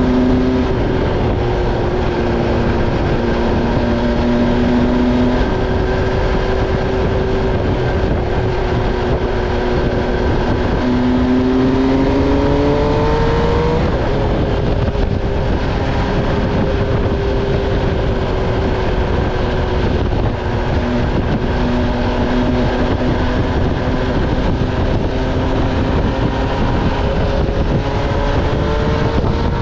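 2015 MV Agusta Stradale 800's inline three-cylinder engine pulling the bike along under heavy wind and road rush. The engine note holds steady, climbs a little before halfway, drops back sharply about halfway through, then climbs slowly again toward the end.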